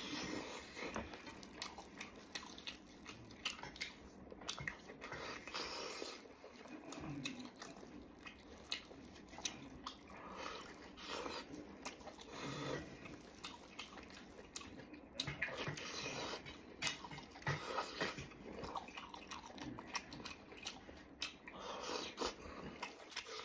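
Close-miked chewing and biting of soy-braised pork knuckle: irregular wet smacks and clicks of the mouth working through soft, fatty meat, with some squelching as gloved fingers tear meat from the knuckle.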